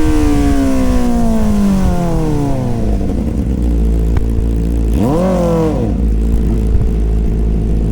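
Inline-four superbike engine with its revs falling smoothly back to idle, then one quick throttle blip about five seconds in before settling to a steady idle.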